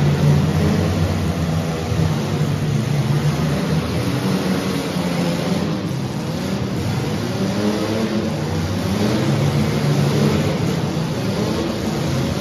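Engines of several compact demolition-derby cars running and revving together, their pitches rising and falling over one another.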